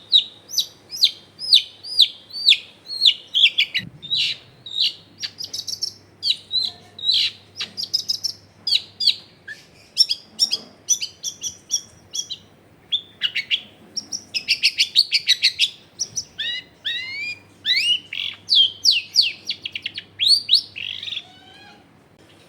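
Long-tailed shrike (cendet) singing a fast, unbroken string of short, mostly falling notes with some rising sweeps. It is a loud, busy song packed with mimicked phrases, and it stops about a second before the end.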